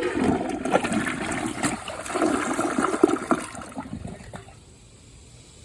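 Project Source Pro Flush dual-flush toilet giving a full, hefty flush: water rushes and gurgles through the bowl, starting suddenly and dying away after about four seconds.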